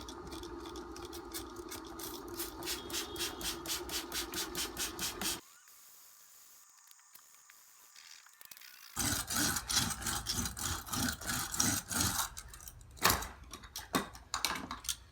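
Quick repeated scrubbing strokes on carpet pile, about four a second, as the carpet is worked to blend the texture of a patch, with a steady hum beneath. The sound stops abruptly about five seconds in, then resumes about nine seconds in as faster, uneven scrubbing with a few sharper knocks.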